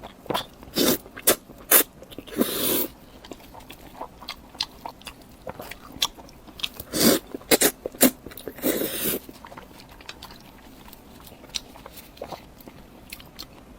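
Close-miked eating sounds: a run of sharp bites and mouth clicks while chewing, with a couple of longer noisy bursts about two and a half and nine seconds in, then quieter chewing.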